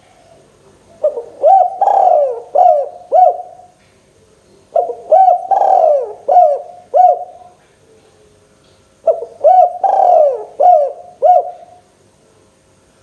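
Spotted dove cooing, three phrases of about five arched coos each, a few seconds apart.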